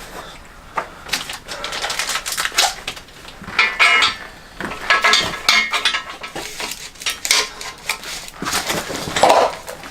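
Hand tools and steel engine parts clinking and clattering in quick irregular clicks, with a few brief ringing metal strikes about four and five seconds in.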